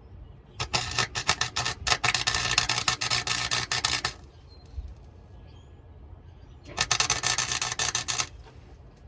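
Electric welder crackling as beads are laid on a truck's exhaust pipe, in two bursts: a stuttering start followed by about three seconds of steady crackle, then a second bead of about a second and a half.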